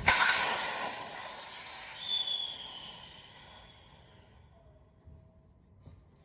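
A sudden loud hiss of compressed air venting, with a whistle that falls in pitch, dying away over about four seconds.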